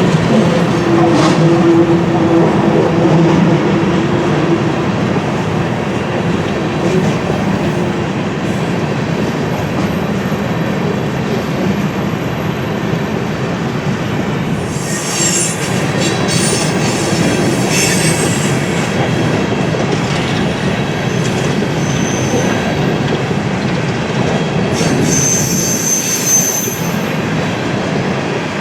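BNSF freight train rolling past, a steady rumble of cars on the rails. High wheel squeals come and go from about halfway through.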